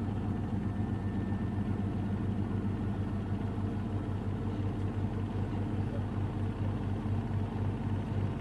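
Samsung Ecobubble washing machine with digital inverter motor on its spin cycle, the drum spinning fast toward about 1000 rpm. It gives a steady low hum with a regular throb and is still running fairly balanced.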